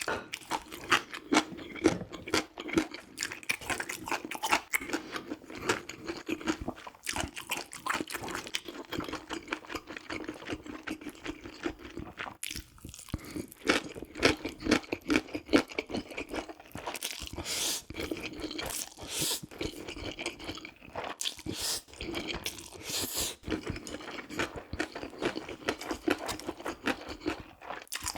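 A person chewing and eating: a steady run of irregular wet clicks, smacks and crunches, easing briefly a little past halfway.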